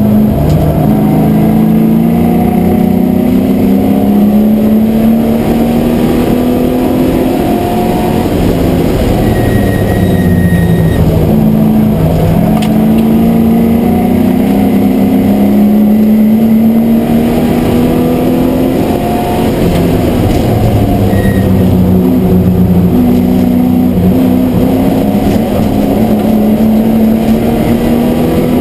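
MGB GT V8 race car's V8 engine heard from inside the cabin at racing speed, its revs climbing through the gears and dropping sharply at each change or braking point, several times. Road and wind noise run under it.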